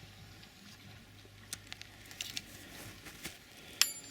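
Faint scattered clicks and taps over a low steady hum, with one sharp metallic clink near the end.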